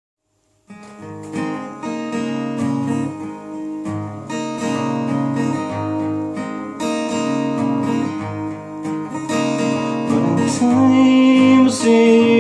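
Acoustic guitar strumming chords as an instrumental intro to a ballad, starting just under a second in, with a sustained melody line coming in near the end.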